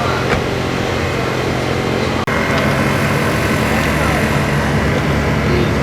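Racing car engine running at a steady pitch, mixed with voices. The sound breaks off abruptly just over two seconds in and picks up again at once, like an edit cut.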